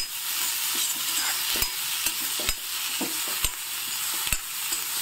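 Chopped onions, green chillies and curry leaves sizzling in hot oil in a kadai, being sautéed soft. A spoon stirs them, scraping and knocking against the pan about four times, roughly once a second.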